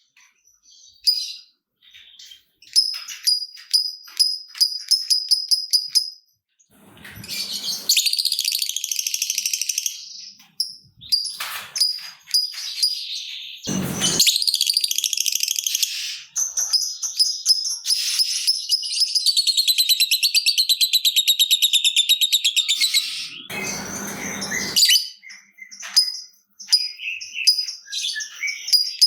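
Lovebird calling: runs of rapid high ticking chatter, then a long unbroken fast trill lasting about seven seconds, the drawn-out ngekek panjang prized in fighter lovebirds. A few short noisy bursts break in between the calls.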